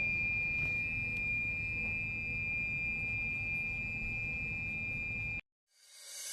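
Kitsilano espresso machine whistling non-stop: one steady high-pitched tone over a low machine hum, which cuts off abruptly about five seconds in. The constant whistle is the fault being repaired.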